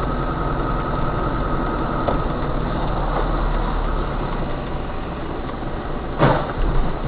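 Steady low engine and road drone inside a moving car, as picked up by a dashcam. About six seconds in there is a short, sharp knock.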